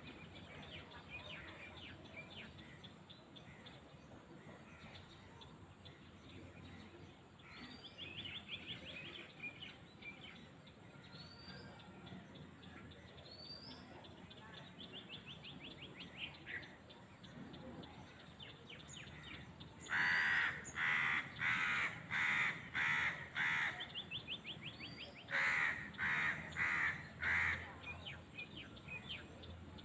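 A bird giving loud, harsh calls: five in quick succession about two-thirds of the way in, then four more a few seconds later. Fainter chirps and rapid trills of small birds run underneath.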